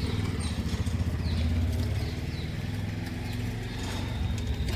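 A motor vehicle's engine running, with a low hum that grows louder about a second and a half in and then eases off. Birds chirp over it.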